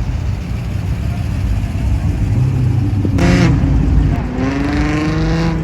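Car engines rumbling low and steady, with a short sharp rev about three seconds in, then an engine revving and rising slowly in pitch through the last second or so.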